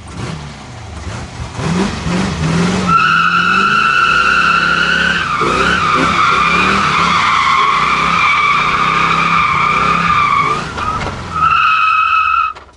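Tyres squealing through a drift over a revving Chevy 350 small-block V8. The engine rises and falls in pitch at first, then a high, steady tyre squeal holds for several seconds. It breaks off briefly near the end, returns, and stops abruptly.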